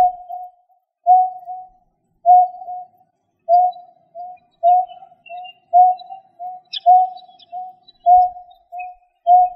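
A bird call used as a hunting lure: a low, hollow note repeated about once a second, each followed by a shorter, softer echo note, in a steady series. A brief higher chirp from another bird comes in about two-thirds of the way through.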